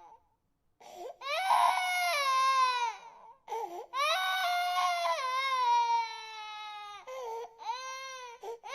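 An infant crying: long wailing cries that fall in pitch, broken by short catching breaths. After a brief pause at the start come two long wails, then shorter, weaker cries near the end.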